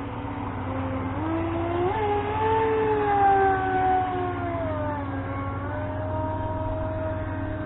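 Brushless electric motor of a Feilun FT011 RC racing boat whining as it speeds up about a second in, holding high, then easing down to a steadier, lower pitch. A steady low hum runs underneath.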